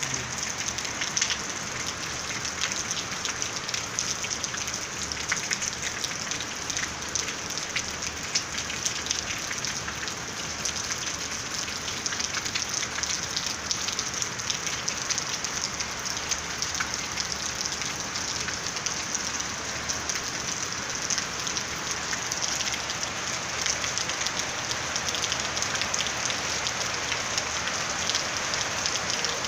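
Steady rain falling on a rooftop, a dense, even patter of many individual drops.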